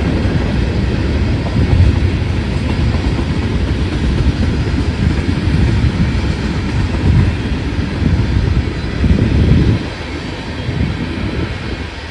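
Train rolling past, a steady low rumble of wheels on rail that drops off sharply about ten seconds in.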